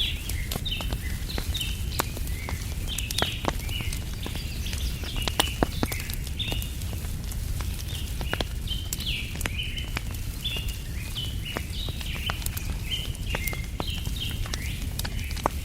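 Wood fire crackling with frequent sharp pops over a low steady background noise, while small birds chirp over and over.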